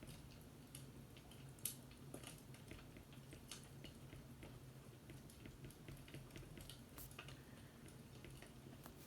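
Faint fireplace crackling: scattered, irregular sharp pops and ticks, one louder pop about a second and a half in, over a low steady hum.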